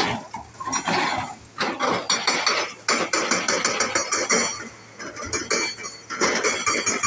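Crawler drilling machine's rock drill hammering into rock: a rapid metallic clatter of knocks that eases off for a moment past the middle, then picks up again.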